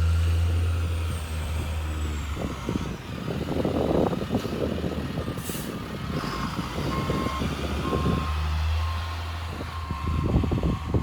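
Snowplow truck's engine running with a low hum. From about halfway through, its reversing alarm sounds a steady series of short beeps, roughly one a second.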